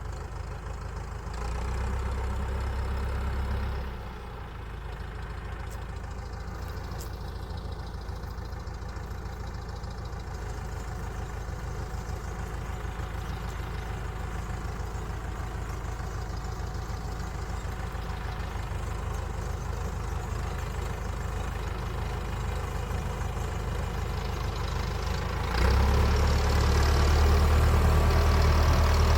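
An engine running steadily at idle with a fine, even pulse. It gets louder for a couple of seconds about two seconds in, and again near the end.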